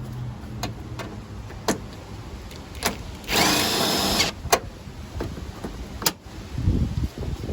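A handheld power tool runs in one loud burst of about a second, in the middle, among scattered sharp clicks and clinks of tools on metal parts. A low rumble comes near the end.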